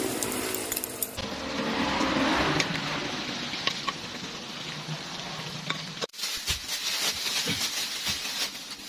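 Food sizzling in hot oil in an aluminium wok, with a metal spatula turning it. About six seconds in the sound breaks off suddenly and gives way to the crinkling of a plastic bag being handled.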